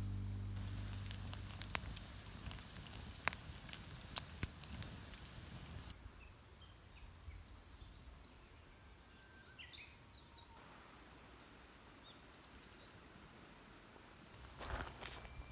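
Campfire crackling and hissing, with sharp pops, for about the first six seconds. After that it is quieter, with a few short high chirps like small birds and a brief rustle near the end.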